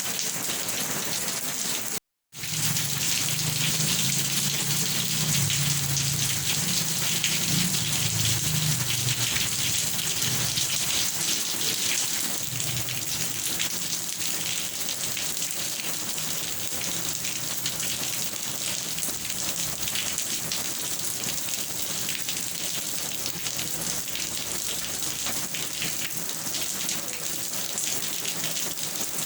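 Steady rain falling on a surface, a dense even hiss. It cuts out for a split second about two seconds in, and a low rumble runs beneath it for several seconds after.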